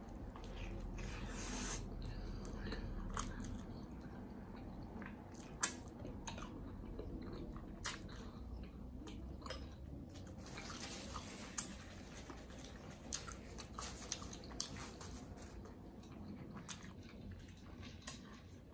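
A person biting and chewing a pretzel-bun double cheeseburger: soft chewing with scattered sharp mouth clicks and smacks, the loudest about six seconds in.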